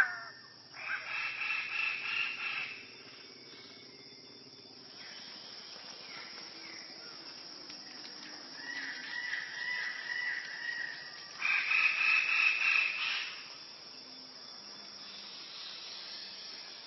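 A bird calling: two loud, drawn-out calls of about two seconds each, one near the start and one near the end, with a softer wavering call between them.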